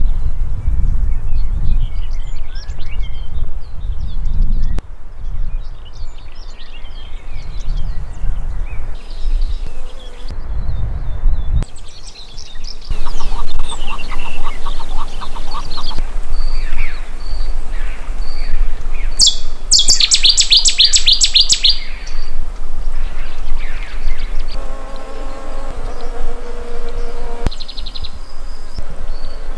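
Wild birds chirping and singing in short trills. For about the first twelve seconds the calls sit over a low rumble; after that they come through clearly, with a fast, high trill about twenty seconds in.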